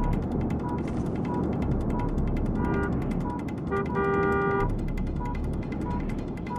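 Car horns sounding in long blasts, the longest about a second long, about four seconds in. Beneath them is a low rumble of traffic and a short electronic beep repeating about every two-thirds of a second.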